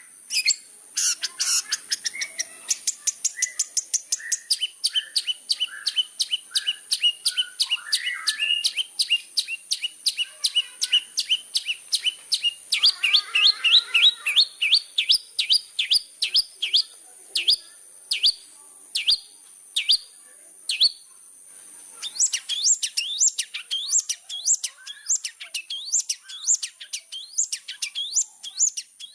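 Long-tailed shrike (cendet) singing in full voice: a rapid string of sharp, falling chattering notes, about three a second. A faster burst of notes comes about 13 seconds in, and the song breaks off briefly near 21 seconds before starting again.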